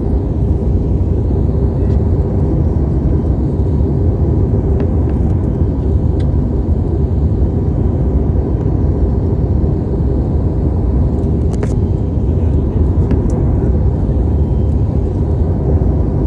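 Steady, loud drone of an airliner cabin in flight: low engine and airflow rumble with a faint steady tone above it, and a few faint ticks about two-thirds of the way through.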